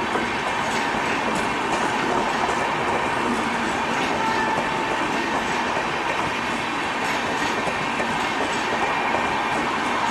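Passenger train coaches rolling past close by, a steady rumble and hiss of wheels on rail with faint clickety-clack of the wheels over rail joints.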